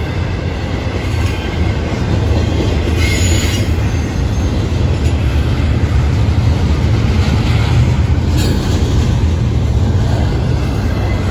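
Intermodal freight cars rolling past close by on the rails: a steady heavy rumble of double-stack well cars and trailer flatcars, with brief higher-pitched wheel squeals about three and eight seconds in.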